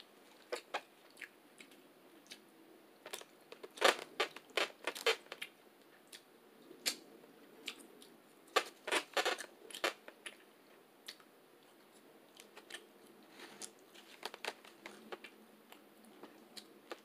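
A person chewing food with wet mouth smacks and clicks close to the microphone. The sounds come in short runs every few seconds.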